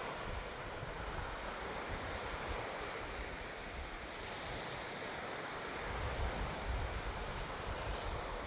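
Lake Superior waves washing on the shore under a steady wind, with gusts rumbling on the microphone about two-thirds of the way through.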